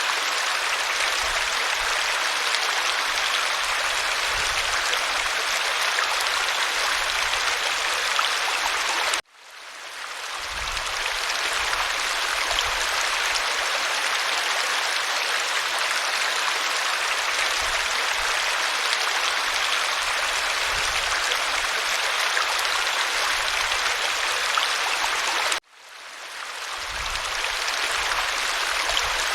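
Waterfall, steady rushing and splashing water. The sound cuts out abruptly about nine seconds in and again a few seconds before the end, fading back in over a second or two each time.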